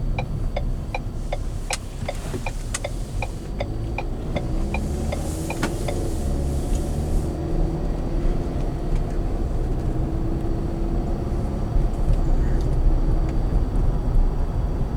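Cabin sound of a 2015 Ford Edge on the road: steady low engine and road rumble, with a turn signal ticking about two and a half times a second for the first few seconds. The engine's pitch then rises as the car accelerates.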